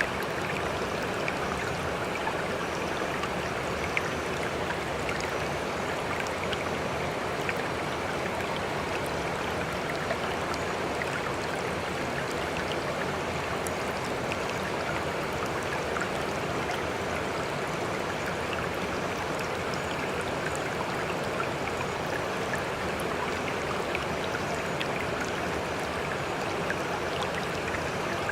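Sea water washing steadily in a continuous, even rush, with no separate waves rising and breaking.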